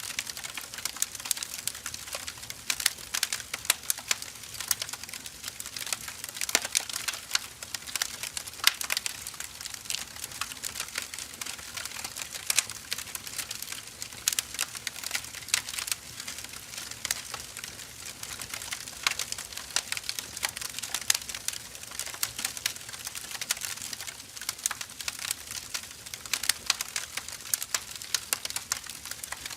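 Burning firewood crackling steadily, with dense irregular snaps and scattered louder pops over a soft hiss.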